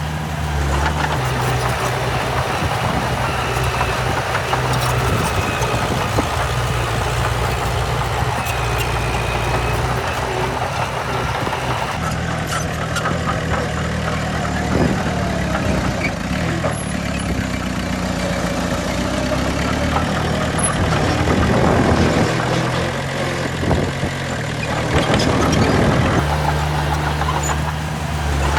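Heavy diesel engines of earthmoving machinery running steadily. The engine note changes about twelve seconds in and swells a few times later.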